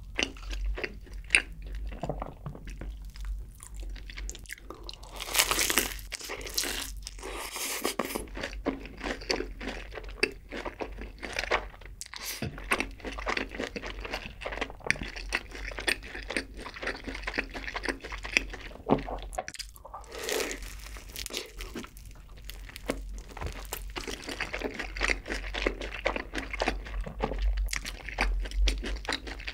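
Close-miked crunching bites and chewing of crispy fried chicken coated in cheese seasoning powder: a steady run of sharp crackles and mouth sounds.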